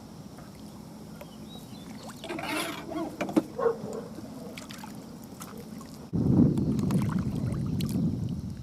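Water lapping and splashing, with wind on the microphone; the noise jumps suddenly louder about six seconds in.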